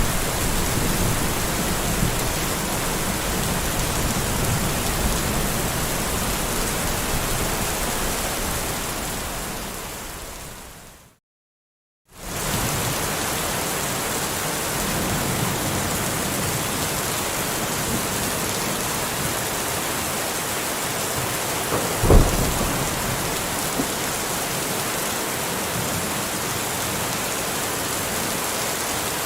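Steady rain hissing, with low thunder rumbling under it in the first part. About ten seconds in the sound fades out to a second of complete silence and then comes back. Near the end a single sudden sharp crack stands out as the loudest moment.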